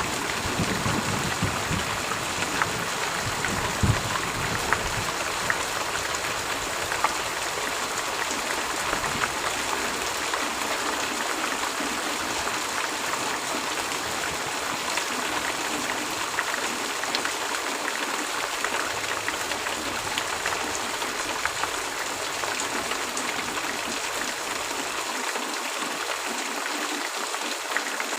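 Heavy rain falling steadily, a dense even hiss and patter. A low thunder rumble dies away over the first few seconds.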